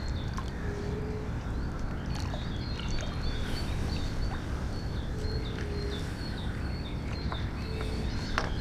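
Outdoor riverside ambience: a bird repeating short high chirps over a steady low rumble, with a few brief low calls and faint clicks.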